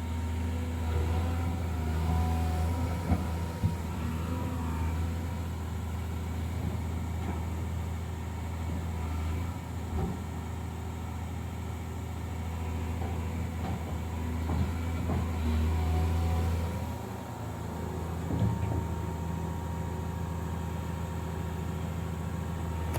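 A large engine running steadily, its hum swelling and easing as the load changes, with a few scattered knocks.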